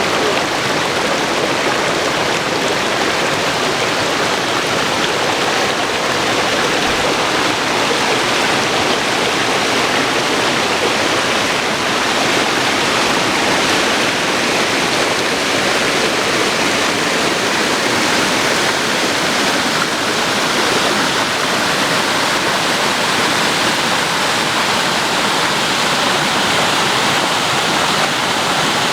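Water rushing steadily down a stream and waterfall: an even, unbroken noise.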